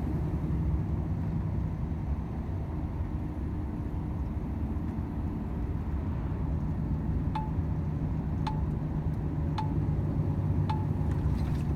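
Cab interior of a Volvo FH 500 truck on the road: its 13-litre straight-six engine and the road noise drone steadily. From about seven seconds in, the turn-signal indicator ticks five times, a short chime-like click about once a second.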